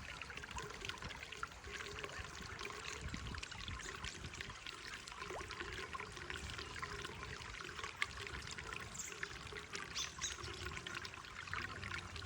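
Runoff water pouring steadily into a freshly unblocked drain pipe, swirling down in a small vortex at the pipe's mouth.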